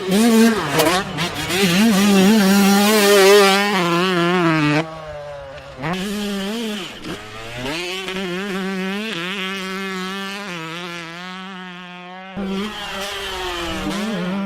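125cc two-stroke motocross bike engine revving hard, its pitch rising and falling with throttle and gear changes. The level drops suddenly about five seconds in, then the engine runs on more steadily and quieter.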